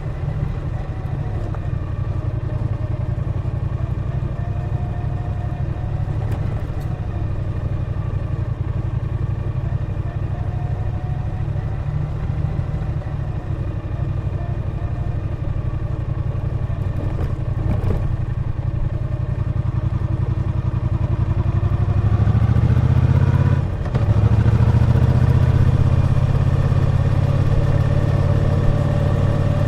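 Triumph Bonneville T120's 1200cc parallel-twin engine running under way. It is steady at first; about three-quarters of the way through it climbs in pitch and loudness, dips for a moment, then runs on louder.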